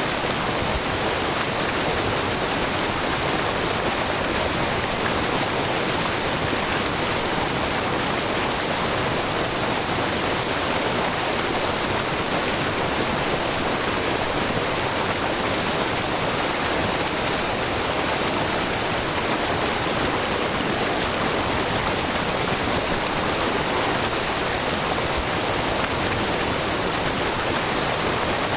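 Wide, low curtain waterfall of spring water falling in many thin streams down a rock face into a pool: a steady rushing and splashing with no change.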